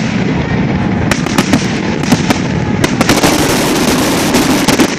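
Fireworks grand finale: shells bursting in a continuous rumble, overlaid with many sharp cracks that thicken into a dense run of crackling over the last two seconds.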